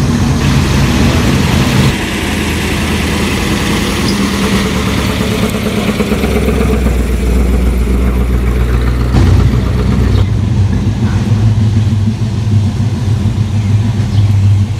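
Car engines running at low revs, a deep steady engine note that changes pitch a few times, about two, six and ten seconds in.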